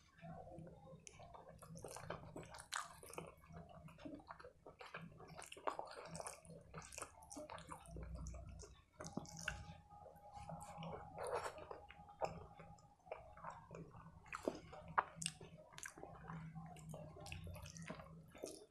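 Close-miked eating by hand: wet squelching as fingers mix rice with mustard-greens saag and paneer curry, and chewing with many small mouth smacks and clicks.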